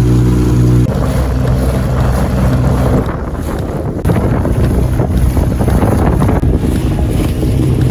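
A motorboat engine's steady hum stops abruptly about a second in, giving way to wind buffeting the microphone and rushing water.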